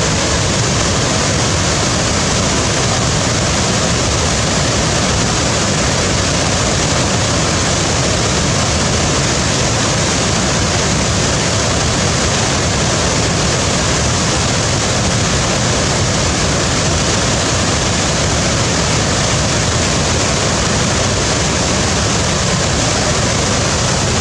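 Waterfall: falling water making a steady, unbroken rush with no change in level.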